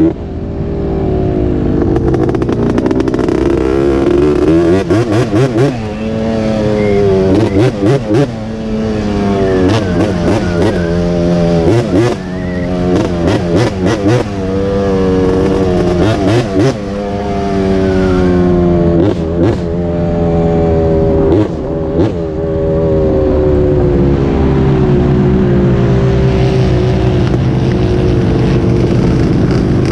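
A small off-road engine revving hard, its pitch climbing and dropping back again and again with brief cuts in the sound between climbs, then holding a steadier note near the end.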